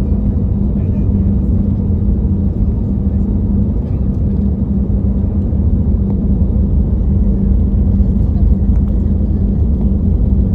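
Steady cabin noise of an Airbus A321: a low rumble of engines and airflow with a constant hum underneath.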